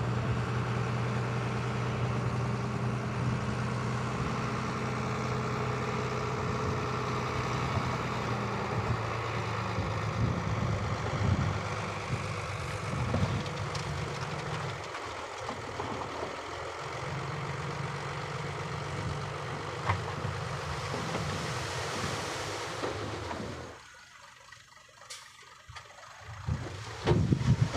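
Heavy diesel earthmoving machinery running: a steady engine drone for the first ten seconds or so, less even afterwards. Near the end it drops away sharply for a couple of seconds, then returns.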